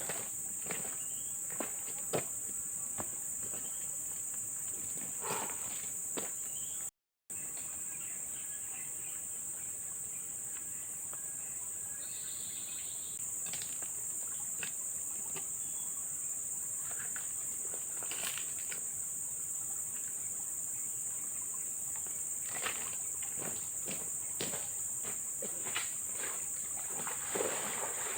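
Steady high-pitched chorus of forest insects, a continuous shrill drone, with scattered short clicks and rustles of footsteps or handling over it. Everything cuts out for a moment about seven seconds in.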